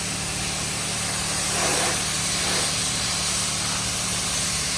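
2007 BMW 335i's twin-turbo straight-six idling steadily, under a loud even hiss that swells briefly about two seconds in.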